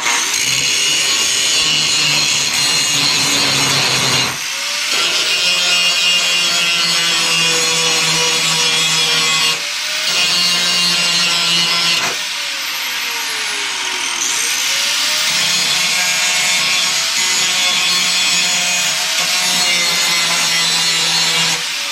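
Angle grinder with a grinding disc running against metal, cutting a weld-prep bevel that leaves a small flat land on the edge. The motor whine sags as the disc bites and recovers when it lets up, easing off briefly about four, nine and twelve seconds in.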